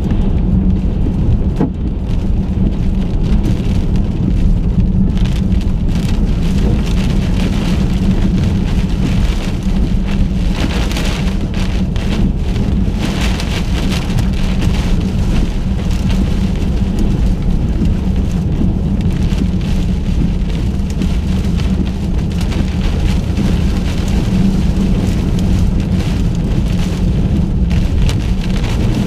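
Wind-driven rain and debris pelting the car's windshield and body in a tornado's strong rear-flank downdraft, heard from inside the car over a steady low rumble. The pelting is thickest about a third to halfway through.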